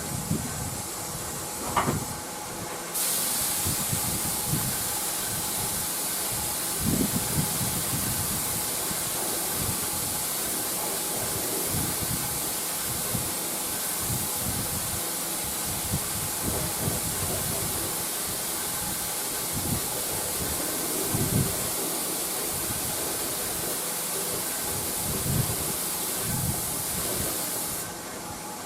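Lacquer being sprayed onto a wooden radio cabinet: a steady hiss that starts about three seconds in and cuts off near the end, with a few soft low bumps of handling.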